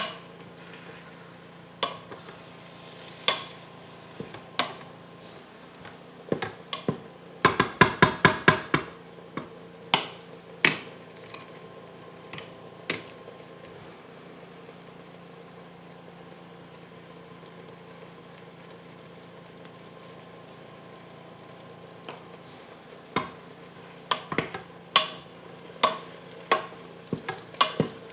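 A cooking utensil knocking and scraping against the pressure cooker's inner pot while breaking up browning ground beef: scattered sharp clicks, a quick run of about eight knocks partway through, then a lull before the tapping resumes near the end, over a steady low hum.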